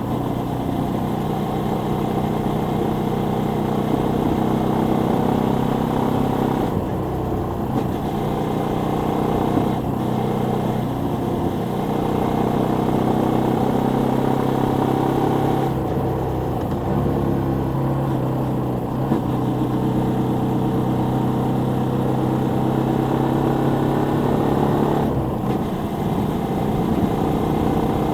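Suzuki Volty 250's air-cooled single-cylinder engine running on the move. The note holds steady for stretches and briefly dips and changes pitch four times, as the throttle is eased and reopened.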